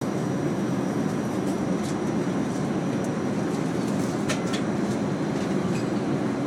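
Steady cabin roar inside an Airbus A380 airliner, an even rumbling hiss of air and engine noise with a thin steady high tone over it. A few faint ticks come about four seconds in.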